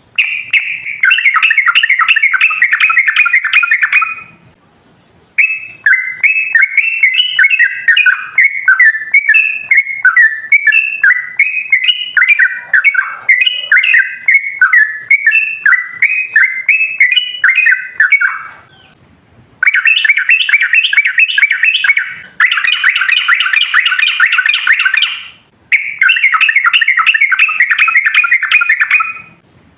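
Yellow-vented bulbul (trucukan) song: long, fast chattering runs of repeated notes, each lasting a few seconds and broken by short pauses. A longer run in the middle is slower, with notes stepping up and down in pitch. This is the long 'ropel' song used as a lure to get other trucukan to answer.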